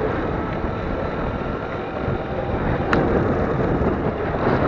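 Wind buffeting the microphone over the faint steady whine of an electric dirt bike's motor, with one sharp click about three seconds in.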